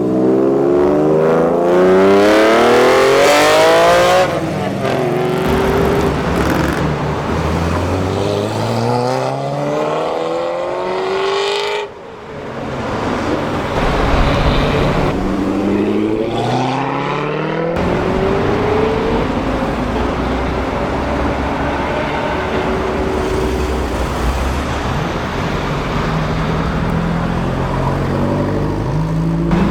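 Supercar engines accelerating hard, the revs climbing steeply three times in a row, followed by a steadier engine note that starts to rise again near the end.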